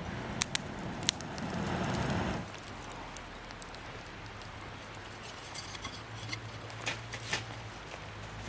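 Campfire crackling, with sharp pops about half a second and a second in and again near the end, and a short rushing noise lasting about a second in between.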